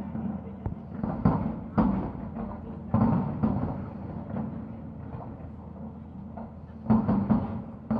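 Distant fireworks shells bursting: a series of booms that each echo and fade, a pair coming close together near the end.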